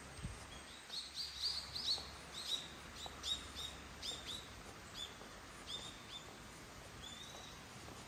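A small bird calling: a quick run of short, high chirps that is densest in the first few seconds and thins out toward the end.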